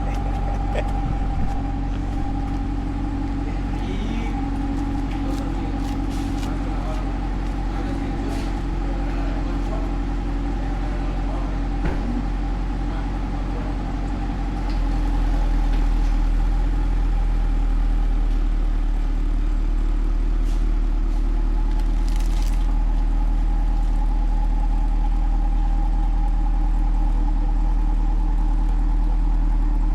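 Cadillac CT5-V Blackwing's supercharged 6.2-litre V8 idling steadily through a Corsa Xtreme Valved cat-back exhaust. The deep low rumble steps up in loudness about halfway through.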